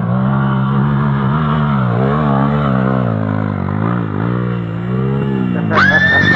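Off-road motorcycle engines running steadily, their pitch rising and falling slightly with small throttle changes. About six seconds in, a sharper, higher-pitched sound suddenly cuts in over them.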